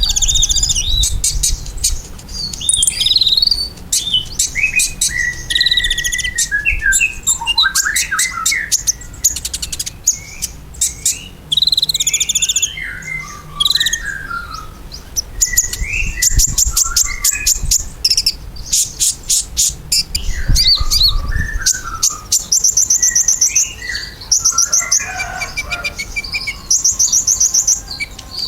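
A kolibri ninja sunbird singing non-stop: runs of rapid, very high trills alternate with short chirps and sliding whistled notes.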